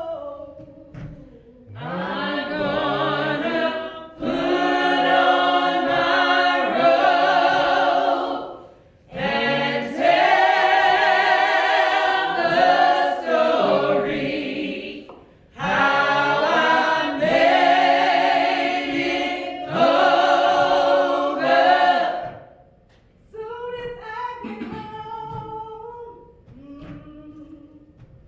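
A church choir singing, in long loud phrases broken by short pauses, with softer singing near the end.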